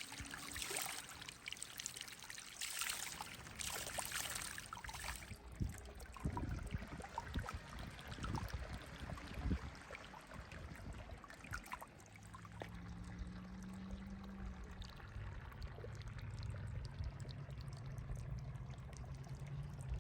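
Running water, trickling and splashing, loudest in the first five seconds. A low steady hum joins it about twelve seconds in.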